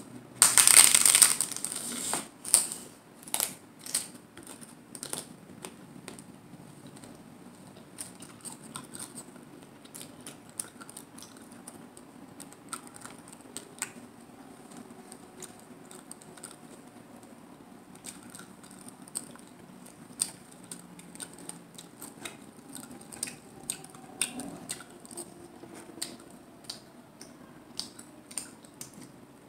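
Crunching of a hard corn taco shell: a loud crackling bite about a second in, then scattered small crisp crunches as it is chewed.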